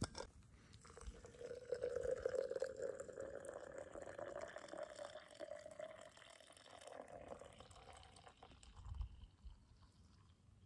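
Coffee being poured into a cup, a steady pouring sound whose pitch rises slightly as the cup fills, fading out after several seconds.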